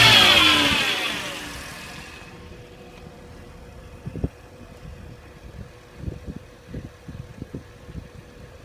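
Mercedes-Benz S320's straight-six engine dropping back from a rev, its pitch and level falling over the first second and a half, then running quietly at idle. From about four seconds in, a few scattered soft thumps sound over the idle.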